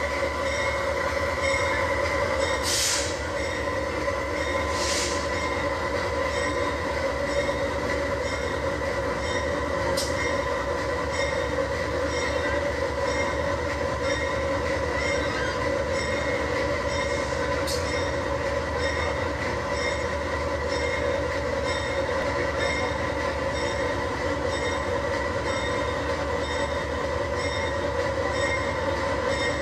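Steady train noise: an even drone with high, ringing squeal-like tones that hold steady, and two short hisses about three and five seconds in.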